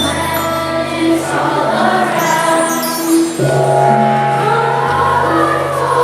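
Choir singing with instrumental accompaniment in held, sustained notes; the chord changes about halfway through.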